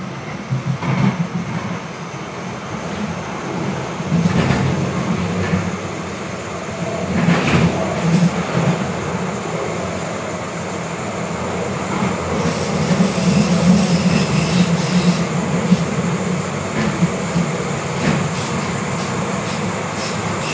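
Siemens-Duewag U2 light rail car running between stations, heard from inside the car: a steady rumble of wheels on the rails, with a few sharp clacks over the track joints.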